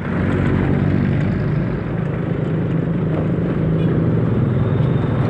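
Yamaha Mio 1 scooter's small single-cylinder CVT engine running steadily under way, with road and wind noise; it gets louder right at the start.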